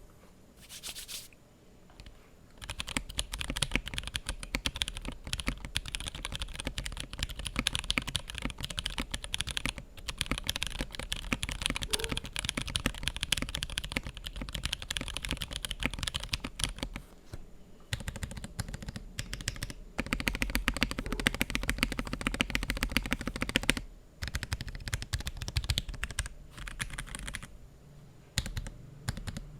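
Typing sound test on a TKC Portico 65 gasket-mount keyboard with an FR4 plate and JWK Lagoon linear switches: fast, continuous keystrokes with a few short pauses. The sound is soft and a bit too muted.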